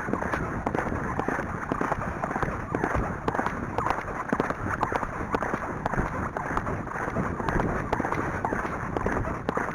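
A horse's hoofbeats at a fast pace, many quick thuds, with wind buffeting the microphone.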